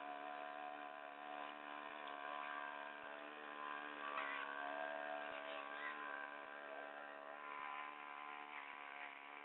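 Small engine of a home-built propeller-driven 'wind scooter' boat running steadily with a buzzing drone.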